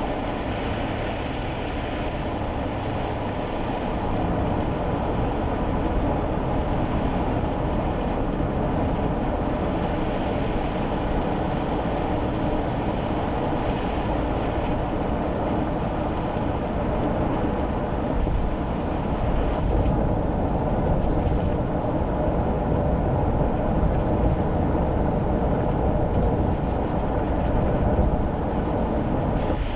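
Steady road noise inside a small kei car driving on wet roads: tyre noise and engine drone, swelling slightly about four seconds in and again about eighteen seconds in.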